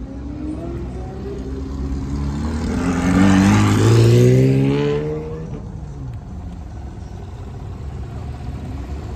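A car's engine revving and rising in pitch as it accelerates away, loudest about three to four seconds in, then dropping back under the steady low rumble of other idling cars.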